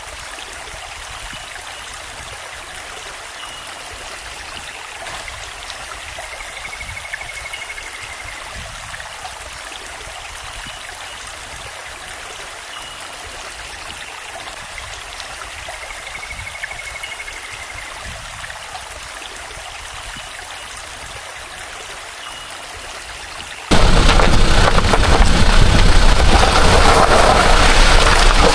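Steady rush of running water, an even hiss. About 24 s in it cuts abruptly to loud wind buffeting the microphone.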